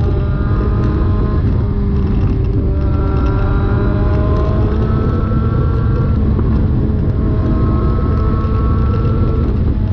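Suzuki GSX-R1000 inline-four engine running through an aftermarket SC Project exhaust with the catalytic converter removed. It gives a loud, steady exhaust note whose pitch holds or drifts slightly and shifts every couple of seconds.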